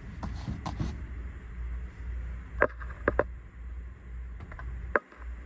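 A handful of sharp knocks and clicks, grouped around the middle and near the end, over a steady low rumble.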